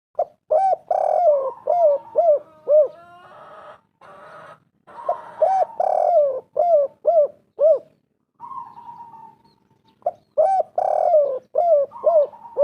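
Spotted dove (tekukur) cooing: three phrases of about six quick, rising-and-falling coos each, a few seconds apart.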